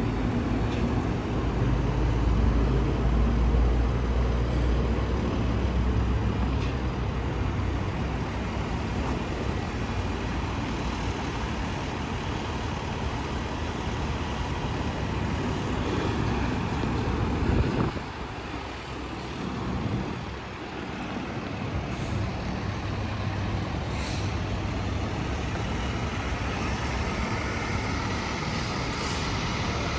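Hino grapple truck's diesel engine running steadily. The level drops about eighteen seconds in, and a couple of brief sharp sounds follow.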